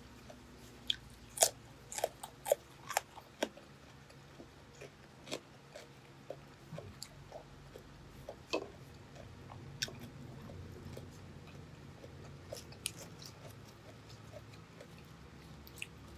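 A person chewing crisp food with the mouth closed: a run of short crunches and wet mouth clicks, densest in the first few seconds and thinning out after about ten seconds.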